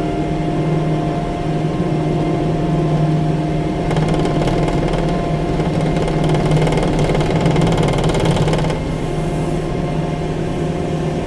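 A 6-ton tracked skid steer's diesel engine running steadily with a strong low hum. From about four seconds in to about nine, a brighter hissing, rattling noise is added on top.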